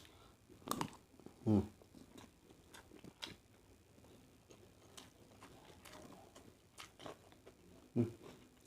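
Faint, scattered clicks and taps of a spoon and food being handled close to the microphone, with a short hum from the eater about a second and a half in and again near the end.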